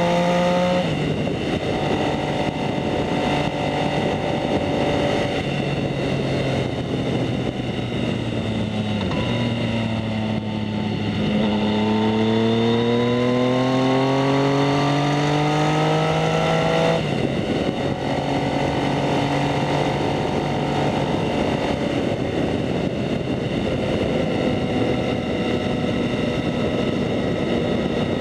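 2019 Yamaha MT-09's 847 cc three-cylinder engine through a Two Brothers S1R full exhaust, ridden on the road. Revs climb and then drop sharply about a second in, as at a gear change, and it runs steadily. It eases off around nine seconds in, then accelerates with revs rising from about eleven to seventeen seconds in, drops back sharply, and runs steadily again.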